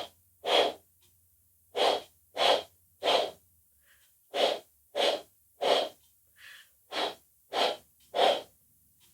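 Breath blown into cupped hands in short, breathy puffs. They come in sets of three, about two-thirds of a second apart, with a short pause between each set, repeated several times.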